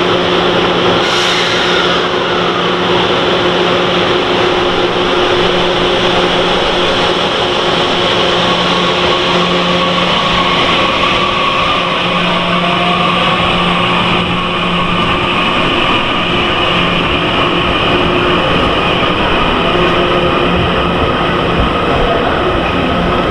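A train at a station platform running with a steady mechanical hum and rumble, with several steady droning tones and no wheel clatter.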